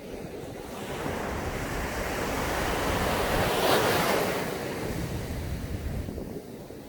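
Ocean waves breaking on a sand beach: one wave's wash swells to a peak about halfway through, then fades. Wind noise on the microphone runs underneath.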